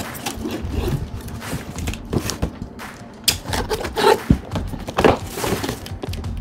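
A cardboard scooter box being opened by hand: irregular knocks, thuds and scraping of cardboard, with several sharper knocks past the middle.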